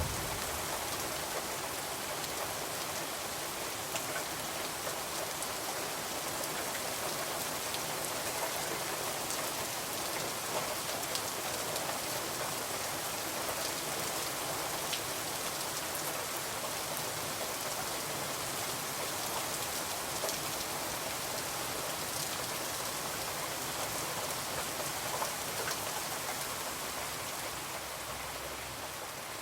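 Steady rain falling on a window, an even hiss with scattered faint clicks of drops.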